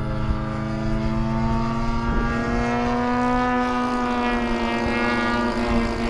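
Radio-controlled model airplane's engine and propeller running steadily as it flies around, the pitch drifting slightly up and back down.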